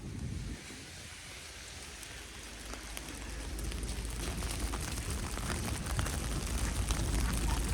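Falling wet snow pattering: a steady hiss with many small ticks of drops, growing louder from about three seconds in, with a low rumble underneath.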